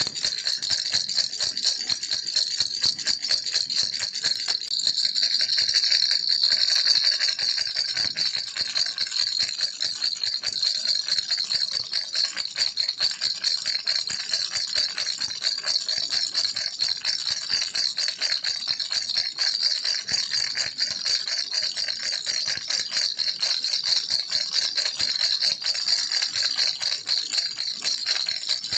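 Baby rattle shaken without a break, a fast, dense, bright rattling that stays even throughout.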